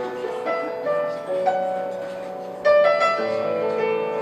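Piano playing the slow instrumental introduction to a song, with held chords and a few new notes struck about two and a half to three seconds in.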